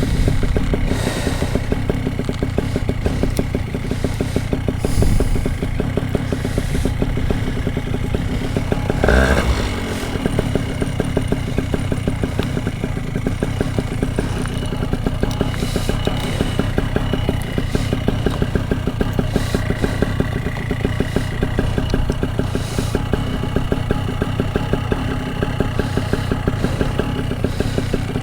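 Paramotor engine idling on the ground with the propeller turning, a steady even running note. About nine seconds in there is one brief sweep that falls in pitch.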